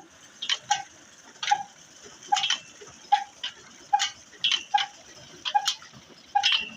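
Old Ruston engine running slowly, beating evenly about every three quarters of a second: a short note followed by sharp clicks on each beat.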